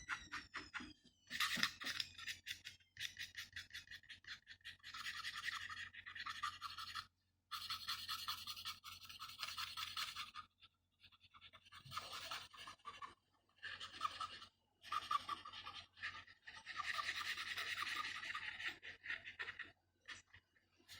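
Paintbrush scrubbing acrylic paint onto a wooden bird figure, in runs of rapid back-and-forth strokes a few seconds long with short pauses between.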